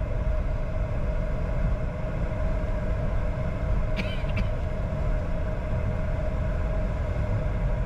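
Steady cockpit noise of a Bombardier Challenger 605 taxiing: a low rumble with a steady hum, and two short clicks about four seconds in.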